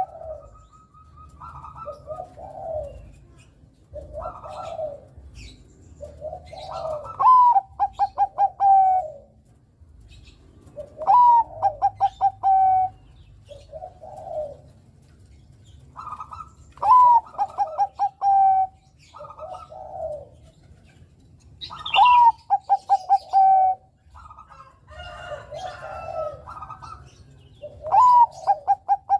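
Bangkok-bred zebra dove (perkutut) cooing its song. It repeats a loud phrase about every five seconds: a rising opening note, a rapid stutter of beats and a long held final note. Softer, lower coos come in between, and faint higher chirps sound in the background.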